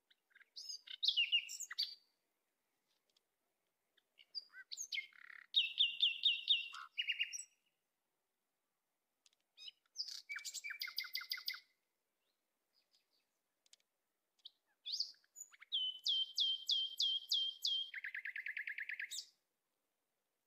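A songbird singing in four phrases of quick repeated notes, separated by short pauses. The last phrase ends in a lower trill.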